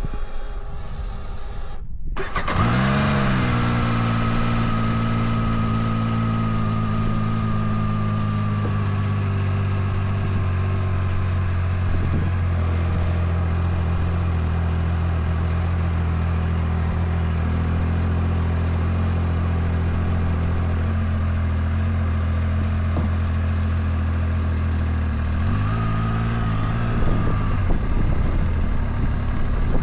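Motorcycle engine, the Zontes 703F's three-cylinder, started about two seconds in and settling into a steady idle. Near the end it is briefly revved once and drops back to idle.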